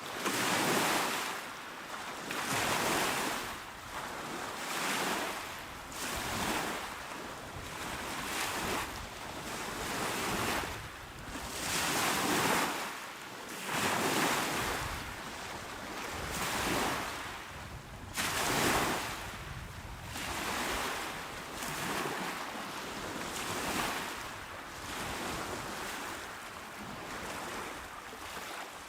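Small calm waves breaking and washing onto a shore, a soft rush that swells and fades about every two seconds.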